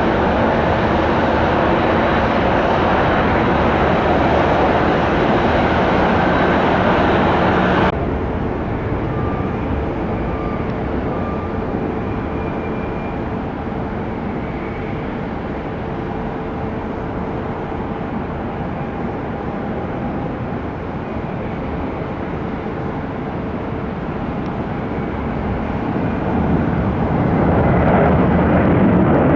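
Jet airliner engine roar: a loud, steady Boeing 767 freighter roar that cuts off abruptly, then a quieter distant jet roar that grows louder near the end as an Airbus A321 approaches to land.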